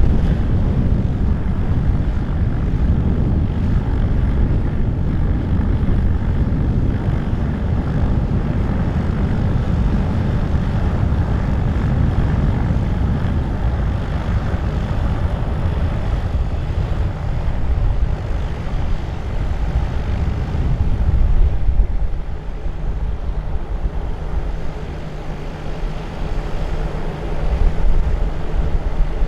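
Airliner engine noise from a passing aircraft, mixed with strong wind buffeting the microphone. About 22 seconds in the noise drops and a steady hum with several held tones takes over, then swells again near the end.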